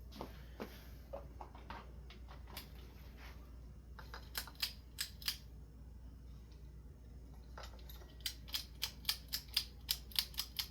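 A switch clicked on and off over and over while testing a ceiling fan light that will not come on. A few scattered clicks come first, then a quick run of about four sharp clicks a second over the last few seconds.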